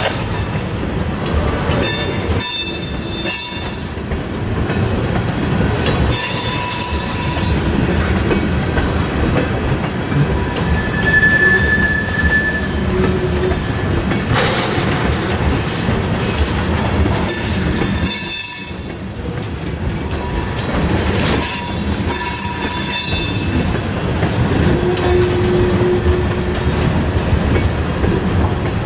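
A freight train's cars rolling past with steady rumbling, clacking over rail joints, and wheels squealing in high-pitched bursts that come and go.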